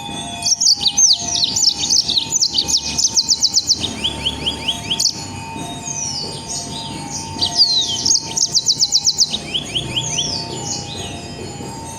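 A songbird singing loud, sharp, falling whistled notes, twice breaking into a fast rattling run of about ten repeated notes a second: the rapid-fire 'nembak' (shooting) style of song.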